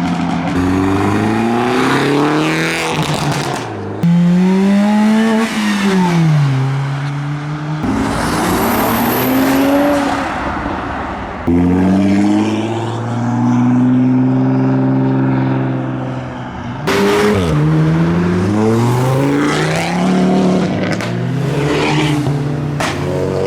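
Modified cars accelerating hard one after another, each engine's pitch climbing and then dropping at gear changes. The sound comes in several short clips that cut off suddenly.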